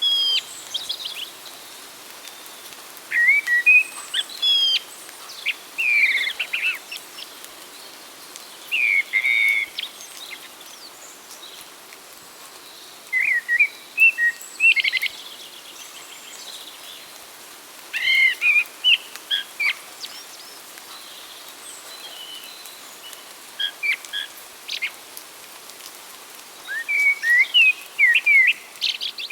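Songbirds singing: short phrases of quick chirps and whistles about every two to five seconds, over a steady background hiss.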